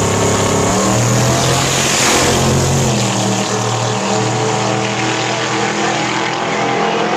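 Race car engine running loud and steady, its note shifting about three seconds in.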